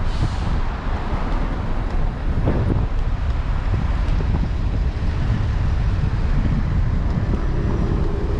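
Wind buffeting the microphone of a moving bicycle camera, with street traffic underneath.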